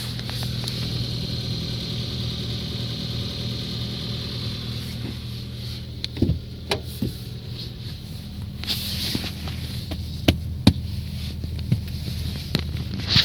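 Ford Focus 3 engine idling steadily with a distinct diesel-like knock, like a diesel on a cold start: an unidentified knock that appeared after an oil change. Several sharp, irregular clicks stand out in the second half.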